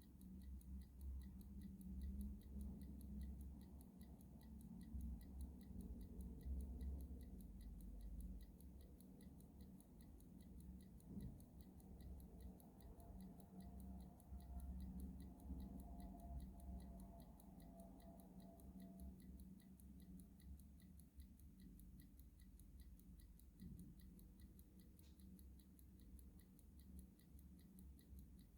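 Clock ticking steadily and faintly at an even pace, over a low background rumble.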